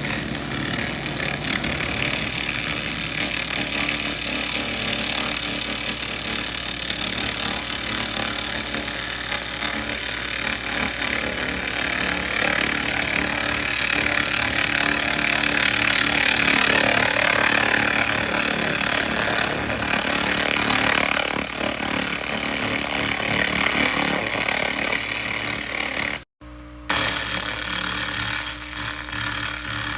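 SFX 2000 laser rust remover stripping rust from metal: a steady hiss over the machine's steady hum, swelling louder midway, with a brief dropout near the end.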